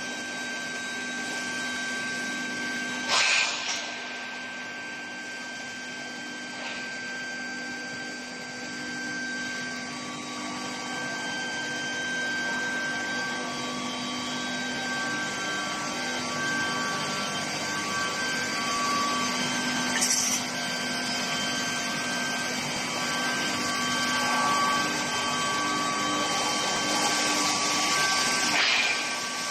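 Steel pipe induction heating line running: a steady machine hum carrying several high steady tones. Short hissing bursts come about three seconds in and around twenty seconds in, with a longer one near the end.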